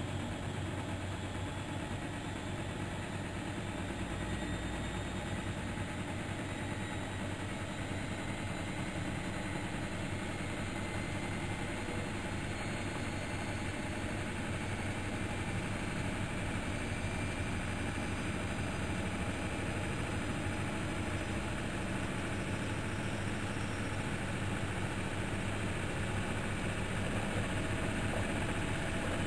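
Miele Novotronic Meteor 2200 washing machine running: a steady motor hum and drum rumble that grows slightly louder toward the end.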